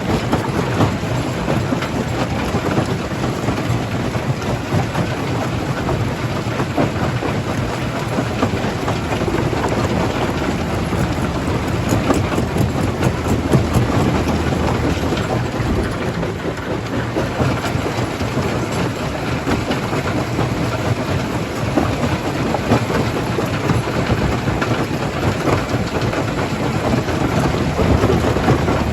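Jaw crusher breaking stone: a dense, continuous clatter and crunch of rock being crushed, over the steady low hum of the machine.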